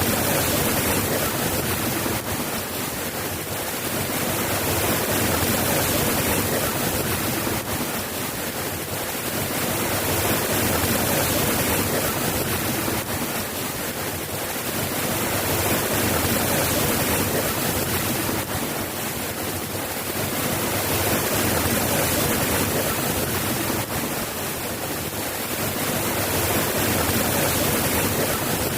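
Steady, dense rainfall, gently swelling and easing every five or six seconds.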